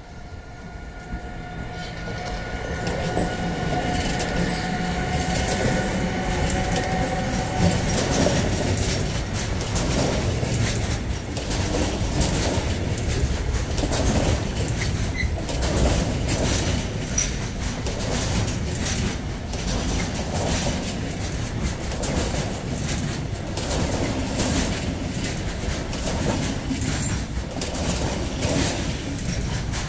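Two Siemens Vectron electric locomotives pulling away with a freight train, passing with a steady electric whine from their traction equipment that grows louder as they approach. The intermodal wagons then roll by, wheels clattering and knocking over the rail joints.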